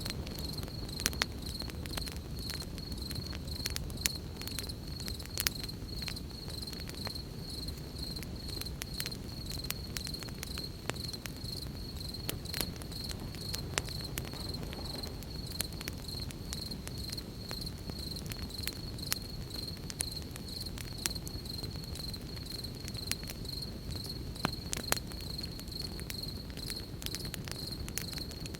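Crickets chirping in a steady, high, pulsing chorus, over a crackling campfire with scattered sharp pops.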